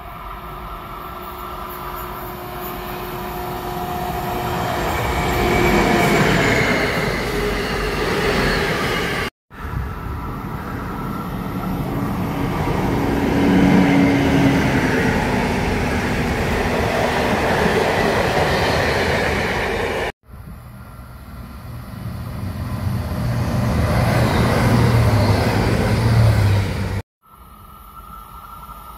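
Trains running through a railway station in several short clips cut together. Each clip builds to a loud rumble of wheels on rails as the train passes close, and each one breaks off suddenly at the cut.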